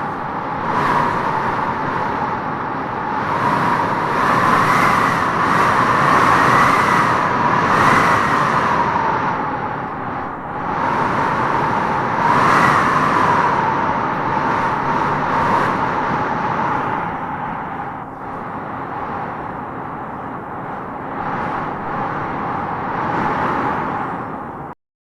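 Strong typhoon wind howling in gusts: a whistling howl that rises and falls in pitch with each gust over a steady rush of noise. It cuts off abruptly near the end.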